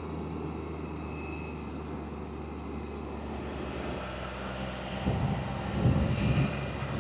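Can-Am Spyder three-wheeled motorcycle engine running steadily while riding, with a louder, uneven low rumble swelling twice between about five and six and a half seconds in.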